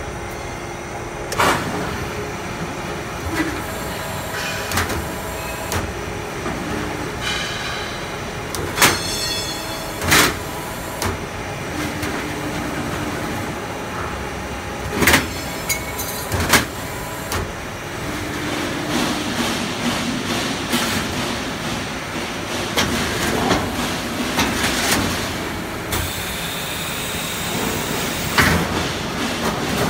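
An HVAC duct manufacturing line running, with motor whines that come and go over a steady machine din. Sharp metal clanks from the sheet-metal punching and shearing stations sound several times.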